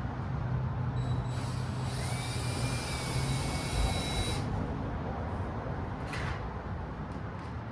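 Power drill driving a screw into the wall for about three and a half seconds, with a high whine that rises as it spins up, over a steady low hum. A brief second burst comes near the end.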